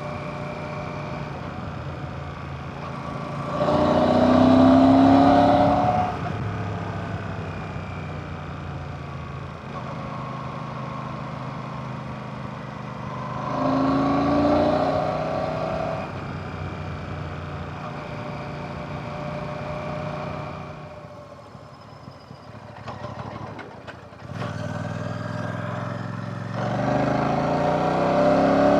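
Royal Enfield Classic 650's 648cc air/oil-cooled parallel-twin engine running on the road. Its pitch rises with two throttle openings, about 4 and 14 seconds in, then it eases to a lower, quieter run around 21 to 24 seconds before accelerating again near the end.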